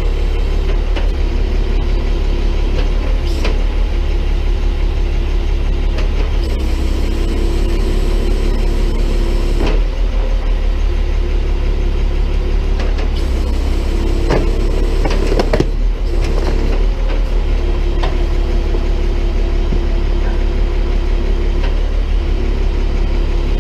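Tow truck engine running steadily while its boom works a homemade can-crusher attachment down onto trash in a trash can. A tone above the engine hum comes and goes several times, and a few sharp cracks sound as the trash is crushed.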